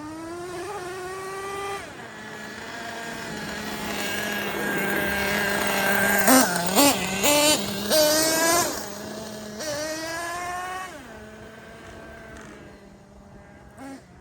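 The Ofna Titan RC monster truck's .25 nitro engine revving up and down under throttle, with several quick throttle blips about six to eight seconds in, then settling to a lower, quieter run. The revs climb without a gear change, which the driver takes for the two-speed transmission not shifting.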